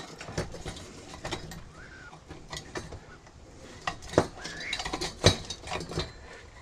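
Steel pliers clicking and scraping against the metal parts of a microwave magnetron as it is pried apart. The clicks are irregular, with two sharper clinks about four and five seconds in.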